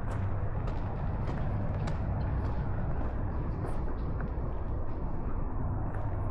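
Footsteps at a walking pace, a little under two a second, over a steady low rumble.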